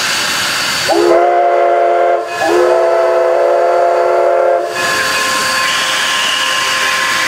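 Steam whistle of Durango & Silverton locomotive 482, a K-36 2-8-2, sounding two blasts, the second about twice as long, as the signal to move off. Steady steam hiss from the standing locomotive throughout.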